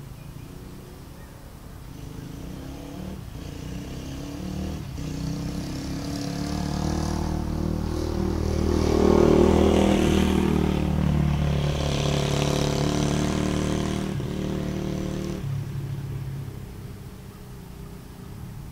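Dirt bike engine running, growing louder to a peak around the middle and then fading away, its pitch shifting as the throttle changes.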